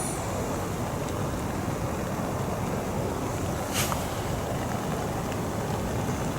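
Steady rain falling in woodland, an even hiss with one sharper drip or tap near the middle.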